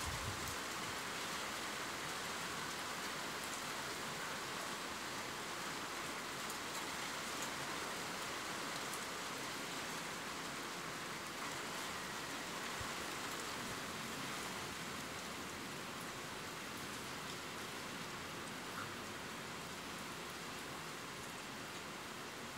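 Steady rain: a dense, even hiss with scattered droplet ticks.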